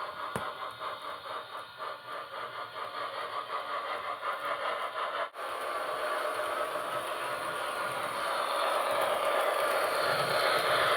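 HO-scale model train running on track: wheels clicking rhythmically over the rails with a motor whir. The sound breaks off abruptly about five seconds in and comes back as a whirring rumble that grows steadily louder as the train nears.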